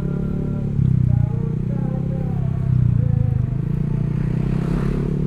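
Motorcycle engine and exhaust running under way, its pitch rising and falling with the throttle. It swells louder briefly about a second in and again near three seconds.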